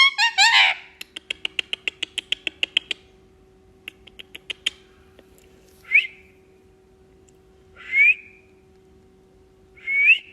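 Pet green parrot calling: a loud squawk at the start over a fast run of clicking chatter, about eight clicks a second, lasting some three seconds; a brief second run of clicks; then three short rising whistles about two seconds apart.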